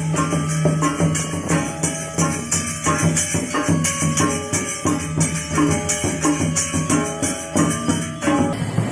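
Live experimental percussion music: quick shaken and struck jingles or rattles over held low tones that change pitch about every half second.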